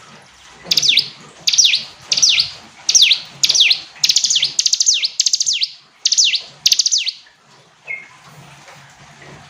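Ciblek gunung, a small prinia, singing a rapid series of high, downward-sweeping notes, about nine quick phrases in a row, then a single short chirp near the end.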